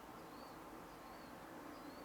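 Faint outdoor ambience: a steady low hum with three short, high chirps from a small bird, evenly spaced about two-thirds of a second apart.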